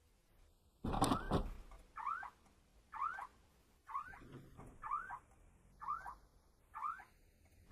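A loud sudden thump about a second in, then a squeak that rises and falls in pitch, repeated about once a second, six more times.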